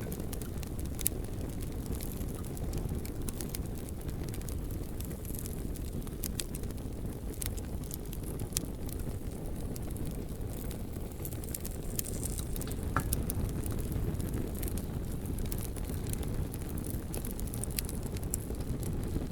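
Campfire crackling, with sharp pops scattered irregularly throughout, over a steady low rumble.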